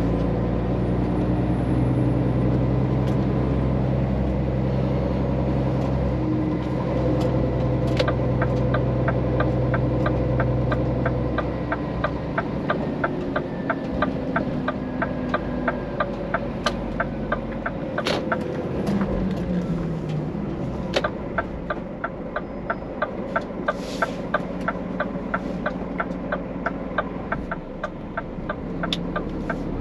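Scania truck engine running steadily, with an even ticking of roughly two to three clicks a second starting about 8 seconds in.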